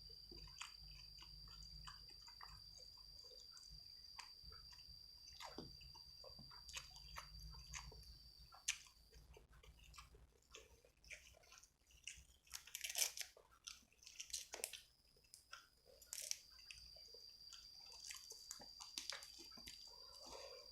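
Close-up chewing and biting of food, with short crisp crunches and wet mouth clicks that come thickest about two-thirds of the way through.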